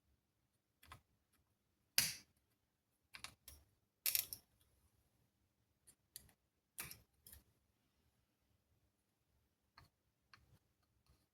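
About a dozen irregular, sharp clicks and light knocks of small hard objects being handled, the loudest about two and four seconds in.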